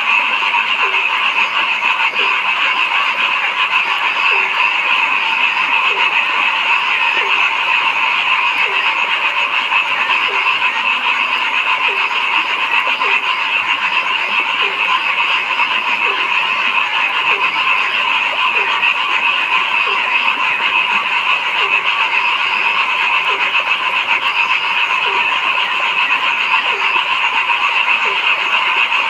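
A dense, unbroken chorus of frogs calling at night, with a short, low croak repeating about once a second over the high, steady trilling of many others.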